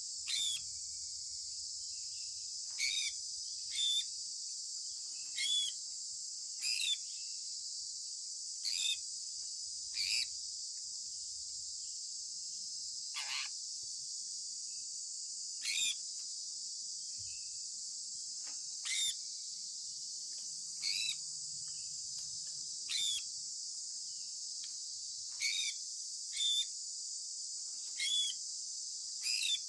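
Sun conure parrot chirping: short, falling chirps repeated every one to two seconds, over a steady high-pitched hiss.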